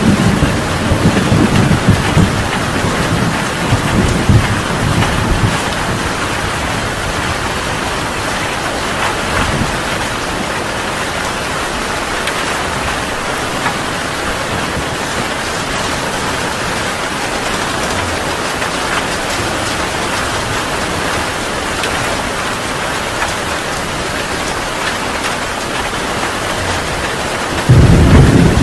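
Heavy rain falling steadily, with a rumble of thunder in the first few seconds that fades away. A loud new thunder rumble breaks in suddenly near the end.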